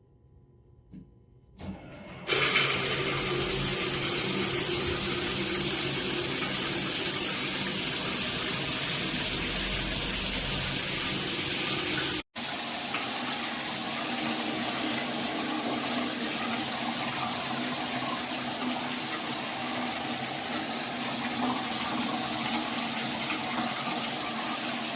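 Water spraying steadily from a Hibbent all-metal shower head, starting about two seconds in after a brief click, with a momentary break about halfway.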